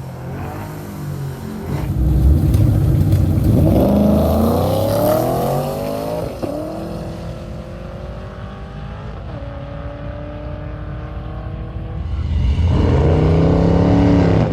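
Drag race car engine under hard acceleration. Its pitch climbs, then drops sharply twice at gear changes and holds steadier, before another climb near the end.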